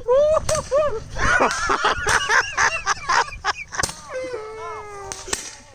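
Small firecrackers popping with sharp cracks amid excited shouting and laughter from a group, ending in a long falling cry or whistle and a final pop.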